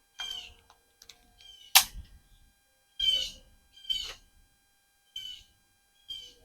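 A small animal or bird making short, high-pitched calls over and over, roughly one a second, each sliding down in pitch. A single sharp click or knock comes about two seconds in.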